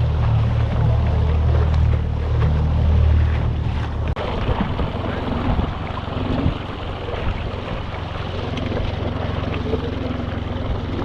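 Motorboat engine running at low speed, with water and wind noise over it; about four seconds in the engine note drops and becomes quieter.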